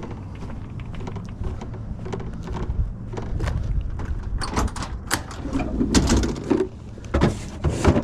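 Tools and equipment being packed away: a run of knocks and clatters, busiest in the second half, over a steady low rumble.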